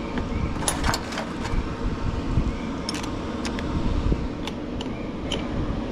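Shop fan running steadily, with scattered light clicks and clinks of hand tools on metal.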